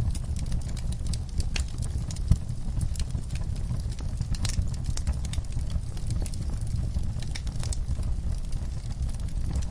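Wood fire burning in a fireplace: a steady low rumble of flames with constant small crackles and snaps, and one louder pop a little over two seconds in.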